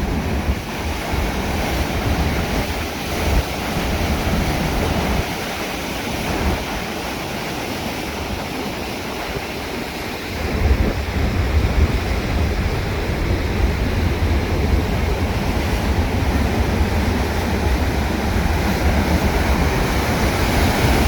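Arkansas River running high and fast near flood stage, a steady rush of water at an irrigation headgate. Wind buffets the microphone, much heavier from about halfway.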